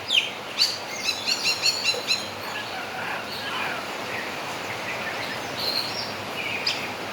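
Javan myna (jalak kebo) calling: a few sharp falling chirps, a quick run of short notes about a second in, then softer twittering with more chirps near the end.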